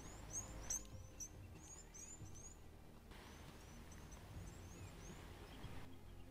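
Faint, quick rising chirps of a small bird, repeated many times, coming thick for about three seconds and then thinning out, over a low rumble.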